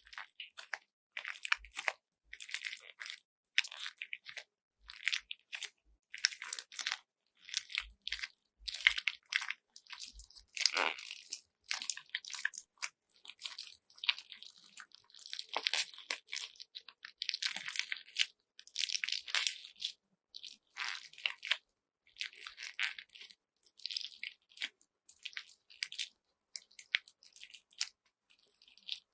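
Hands squeezing and kneading a handmade squeeze bag filled with glitter bead slime, the beads crunching and the slime squishing. The sound comes as a steady run of short, uneven, crisp bursts, several a second.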